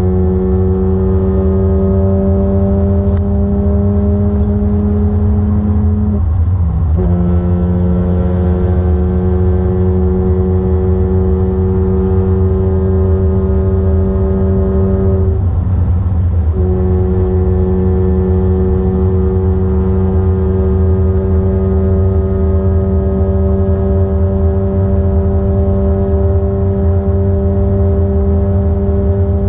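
BMW Z4 M straight-six engine pulling under light throttle, its note rising slowly, with two upshifts, about six seconds in and about sixteen seconds in, where the pitch drops. A steady low road rumble runs beneath it.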